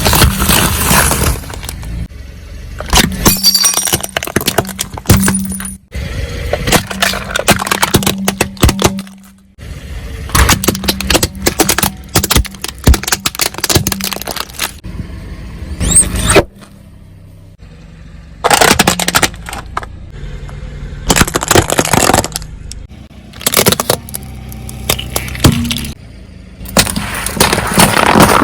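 Car tyre crushing brittle objects: several bouts of dense crunching, cracking and snapping with short pauses between them, over a low steady hum.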